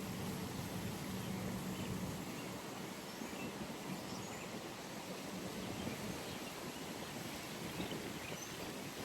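Outdoor pond ambience: a steady wash of background noise with a few faint, short bird chirps. A low, faint hum fades out about two seconds in.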